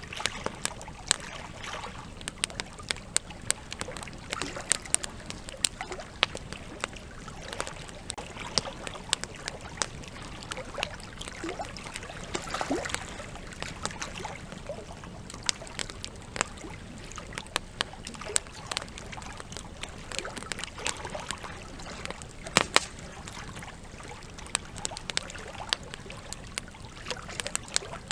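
Wood campfire crackling with frequent, irregular sharp pops over the steady rush of a flowing river. The loudest pops come a little over twenty seconds in.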